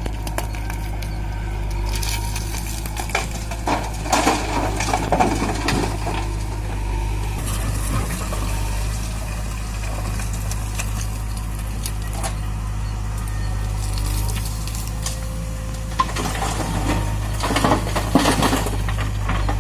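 John Deere 5045D tractor's three-cylinder diesel engine running with a steady low rumble, with bursts of metallic rattling and clanking about four seconds in and again near the end.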